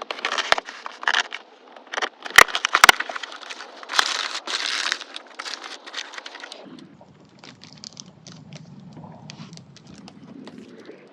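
Tea packaging being handled: irregular crinkling and crackling with sharp clicks, which give way after about six and a half seconds to a fainter low hum.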